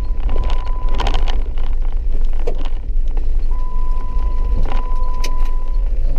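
A car driving on a wet dirt road, heard from inside the cabin: a steady low rumble with scattered knocks and rattles. A thin, steady high tone comes and goes twice.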